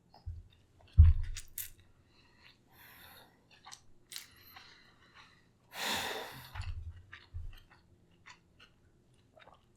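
Close-up eating sounds: chewing and wet mouth clicks with light clinks and scrapes of utensils. There is a heavy low thump about a second in, a short rush of noise a little past halfway, and a few softer thumps after it.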